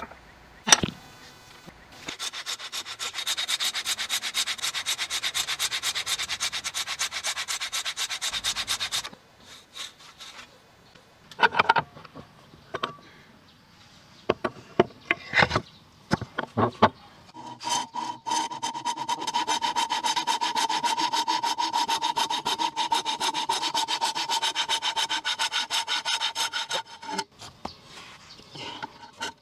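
A hand tool working wood with rapid rasping strokes, in two long passes, with a few sharp knocks in between. A steady ringing tone runs through the second pass.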